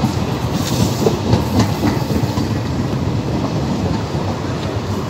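Egyptian passenger train coaches rolling past with a steady rumble of wheels on rails. Several sharp clacks in the first two seconds are the wheels crossing rail joints.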